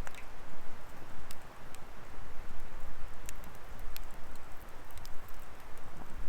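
Wood fire burning in a fire pit: a steady rushing hiss with sharp crackles and pops of the burning firewood, about half a dozen of them, irregularly spaced.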